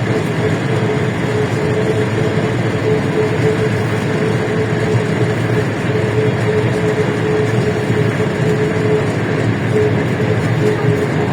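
Cabin noise of a LiAZ-677M bus under way: the ZIL V8 engine and road noise run steadily, with a constant whine over them.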